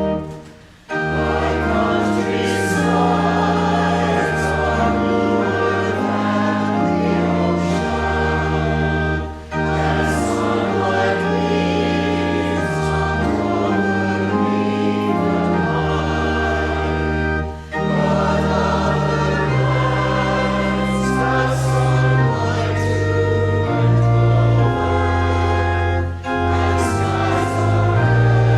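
Church choir singing a hymn with organ accompaniment, in phrases about eight seconds long with a short break for breath between them.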